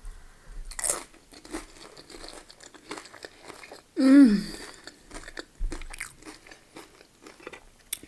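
Close-up crunching and chewing of tortilla chips being eaten, irregular crisp crackles. About four seconds in comes a short voiced sound that falls in pitch, the loudest moment.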